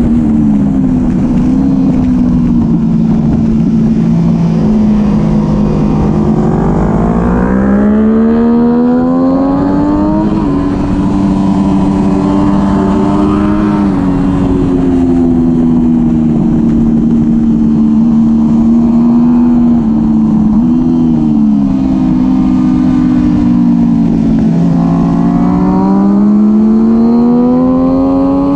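Onboard sound of a supersport motorcycle engine at track speed. Its pitch climbs steeply as it accelerates, about a quarter of the way in and again near the end, and eases down in between as the bike corners, with a low wind rush over the microphone.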